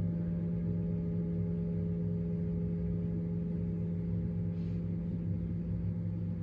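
Steady relaxation drone: several held ringing tones, the strongest low, over a low rumble, unchanging throughout.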